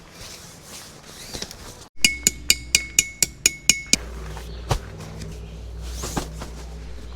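A quick, even run of about ten sharp ringing metallic strikes, about five a second, lasting two seconds, then two single knocks a second or so apart.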